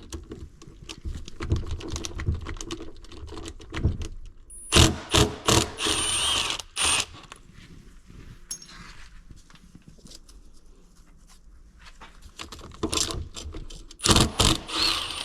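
Metal tools and engine parts clinking and clattering during an engine teardown: scattered light clicks, with two loud bursts of ringing metal clanks, one about five seconds in and one near the end.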